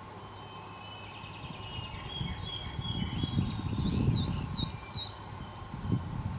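A songbird singing one phrase: a few level whistles, then a quick wavering trill, high in pitch. Underneath, a louder low rumble rises and falls, with a short low knock near the end.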